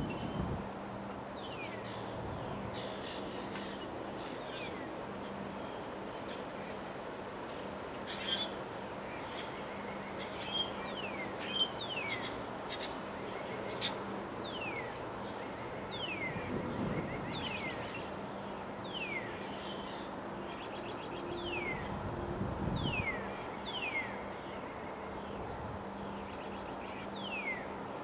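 Small birds calling, a run of short downward-sliding chirps about once a second with a few higher trills mixed in, over a steady rush of wind.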